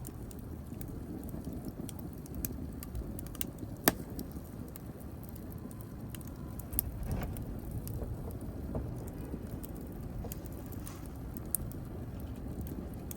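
Wood fire burning in a fireplace: a steady low rumble of the flames with scattered crackles, a sharp pop about four seconds in and another near seven seconds.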